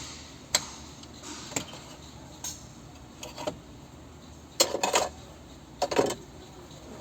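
Irregular sharp clicks and clattering knocks of hard objects, single ones spaced about a second apart, then two short bursts of several rapid clatters about four and a half and six seconds in.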